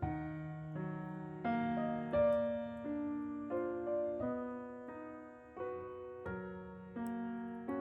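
Background piano music: gentle chords and melody notes struck at an even, unhurried pace, each fading before the next.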